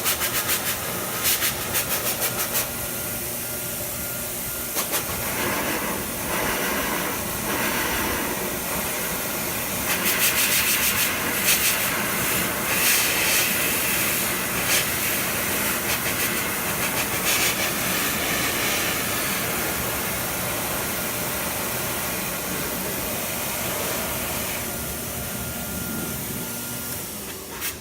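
Handheld blow dryer running continuously: a steady rush of air with a motor whine. Its sound shifts about five seconds in, and the whine returns near the end.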